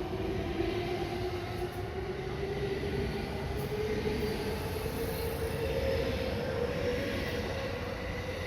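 Electric train's traction motors whining with a tone that climbs steadily in pitch over running noise and rumble, as the train accelerates.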